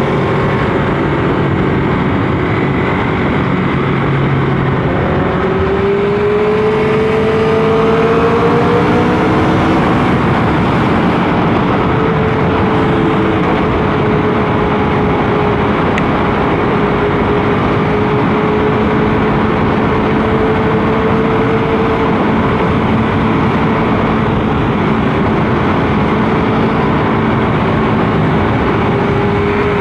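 Motorcycle engine under way, its pitch climbing for a few seconds about a fifth of the way in and then holding steady, over a constant rush of wind and road noise.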